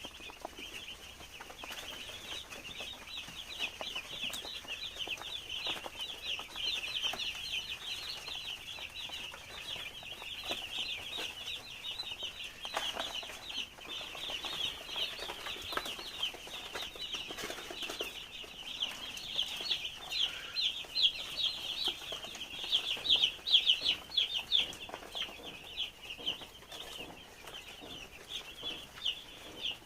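A brooding house full of two-day-old broiler chicks peeping: many short, high chirps overlapping into a continuous chorus, a little louder about two-thirds of the way through. The chicks are warm enough and comfortable.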